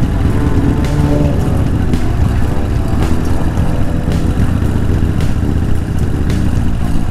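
Harley-Davidson Evolution Softail's V-twin engine running steadily as the motorcycle is ridden at low speed.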